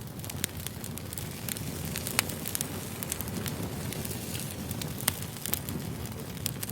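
Campfire burning: a steady low rush with sharp crackles and pops scattered throughout, two of them louder, about two and five seconds in.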